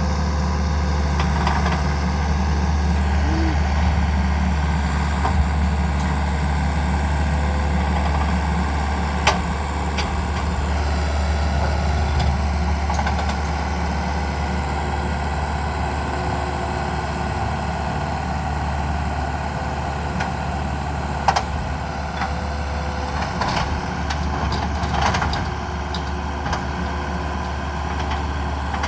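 Old dump truck's engine idling steadily, with a few sharp clicks now and then.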